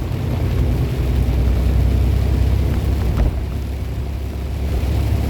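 Semi truck heard from inside the cab while driving: a steady low engine and road drone, with a faint tick about three seconds in.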